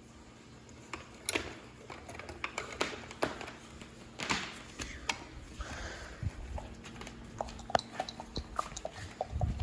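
Handling noise: scattered light clicks and taps with a few brief rustles.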